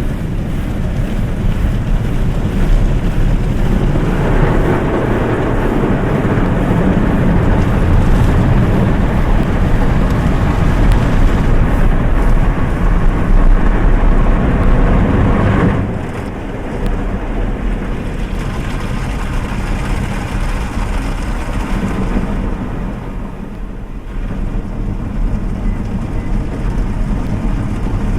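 Automatic car wash machine working over a kei car, heard from inside the cabin: a dense wash of water spray and machine noise on the body. It grows louder a few seconds in, then drops suddenly a little past halfway.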